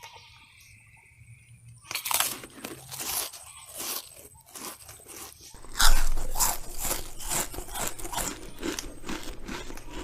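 Close, irregular crunching and chewing starting about two seconds in: an animal munching crisp plant food, loudest around six seconds in.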